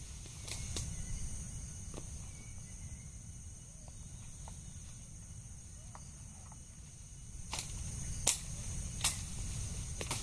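Steady high-pitched insect chorus of crickets or cicadas, with a few sharp clicks or snaps scattered through it. The two loudest snaps come near the end, a little under a second apart.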